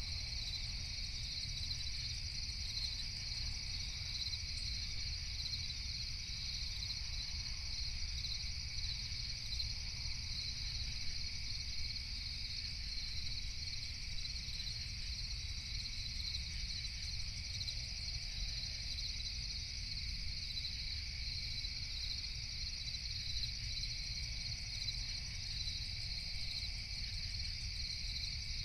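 A dense chorus of night crickets chirping steadily, with no break, over a steady low rumble.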